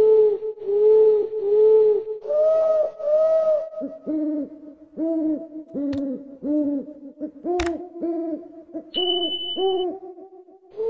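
Owls hooting in a quick repeated series, about two hoots a second, with two voices at different pitches overlapping. A sharp click comes about three quarters through, and a brief high steady whistle comes near the end.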